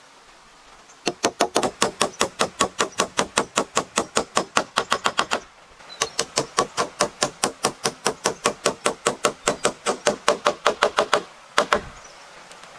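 Rapid hammering, about five even strikes a second, in two runs of about four and five seconds with a short break between, then one last strike.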